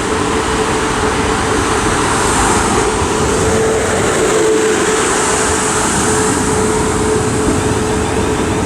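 Class 450 Desiro electric multiple unit running in along the platform to stop, with a steady whine over the rumble of wheels and running gear.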